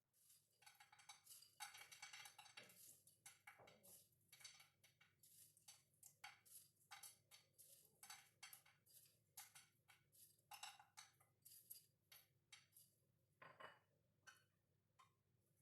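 Faint, irregular light taps and clinks of kitchen utensils against dishes, a few a second, busiest in the first few seconds, over a faint steady low hum.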